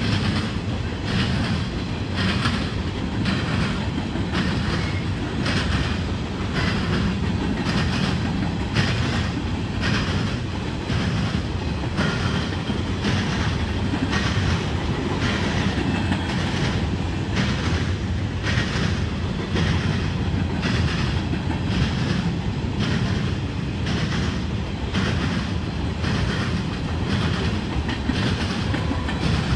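Freight train of covered hopper cars rolling past close by, its wheels clicking over the rail joints in a steady rhythm of about three clicks every two seconds over a continuous rumble.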